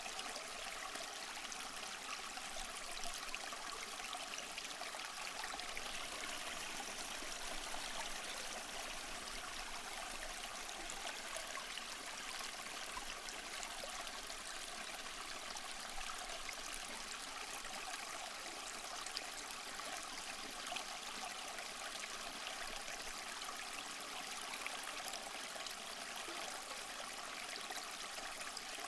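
Small waterfall: water splashing and trickling in a steady, even rush.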